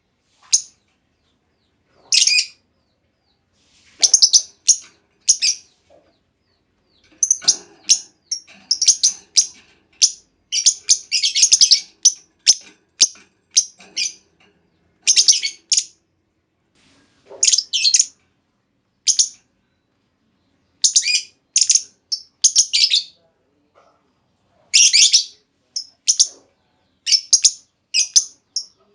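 Female lovebird calling: short, sharp, high-pitched chirps, sometimes single and sometimes in quick clusters of several, with pauses of a second or more between groups.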